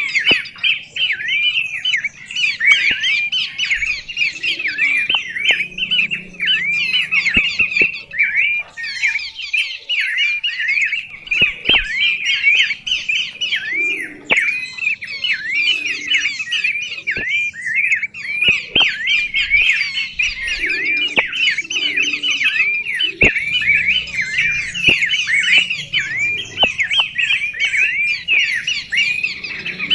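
Songbird calling in a rapid, continuous chatter of short, high notes repeated several times a second, with a few brief pauses.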